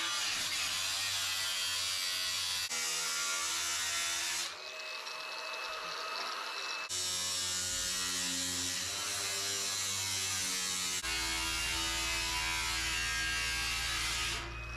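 Power tool with a cutting blade running and cutting through the sheet-steel front panel of a washing machine: a steady motor whine with a hiss of cutting, its pitch and loudness shifting abruptly a few times. The blade is worn out by the end of the cut.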